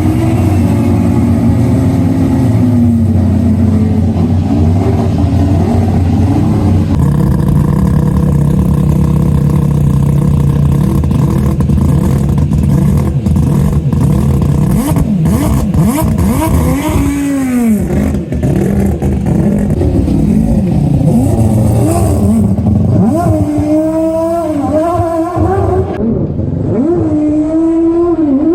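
Turbocharged car engine running steadily, then revved several times in the second half, its pitch climbing and falling with each blip of the throttle.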